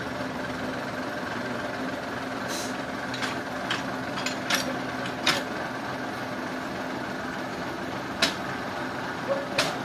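An engine running steadily at a low idle, with a series of sharp knocks or clanks, about eight of them, scattered irregularly over it.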